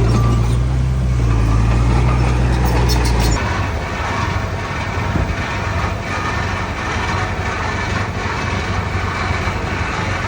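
Heavy diesel earthmoving machinery running loudly on a construction site; about three and a half seconds in, the deep low drone cuts off sharply and a lighter, steady engine noise continues.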